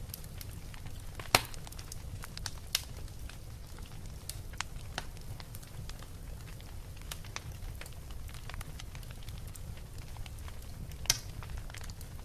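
Wood bonfire crackling and popping, with scattered sharp pops, the loudest about a second in and again near the end, over a steady low rumble.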